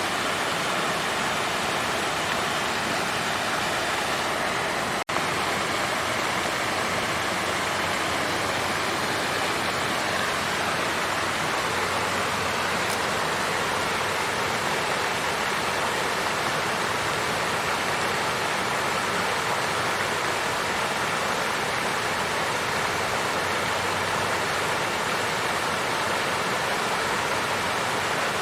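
Water fountain flowing and splashing in a steady, even rush, with a momentary break in the sound about five seconds in.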